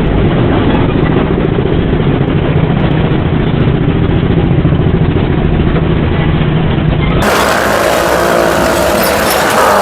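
Engines of motorcycles and cars riding the wall of a well-of-death stunt drum, running at steady high revs in a continuous drone. About seven seconds in, the audio cuts to brighter sound with music playing.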